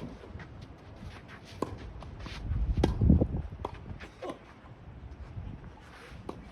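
Tennis court sounds in strong wind: scattered sharp knocks of ball strikes and footsteps, with wind buffeting the microphone in a low rumble that swells around the middle.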